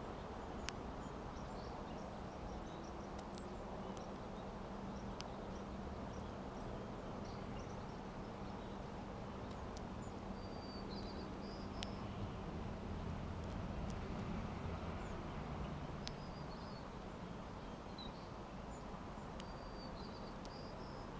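Small songbirds giving brief high chirps, with a short chirped phrase heard twice, about halfway through and near the end, and scattered sharp ticks, over a steady low background rumble and hum.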